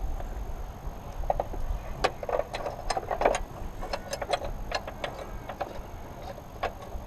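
Irregular metallic clicks and taps of a spanner working a nut on a car battery's fittings, a few clicks a second with small pauses.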